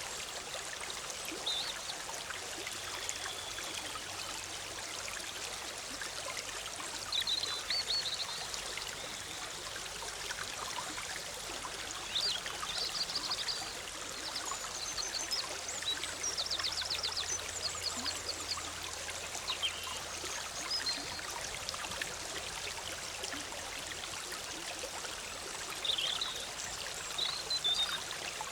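Big Sur River running over rocks in a steady bubbling rush, with small birds singing short trilled phrases every few seconds.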